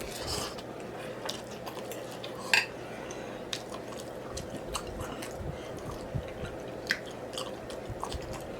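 Close-miked chewing and wet mouth smacking as a person eats, with scattered short clicks. The loudest click comes about two and a half seconds in and another sharp one near seven seconds.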